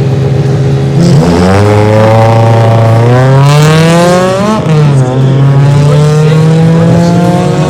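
Drag-racing car engine held at steady revs, then launching about a second in. The engine note climbs, drops sharply at a gear change about four and a half seconds in, and climbs again in the next gear.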